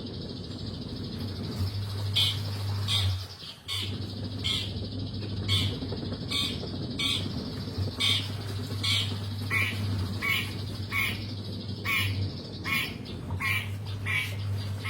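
Long-tailed shrike (cendet) calling in full voice: short, harsh squawking notes repeated about twice a second, with a brief pause about three and a half seconds in. A steady low hum runs underneath.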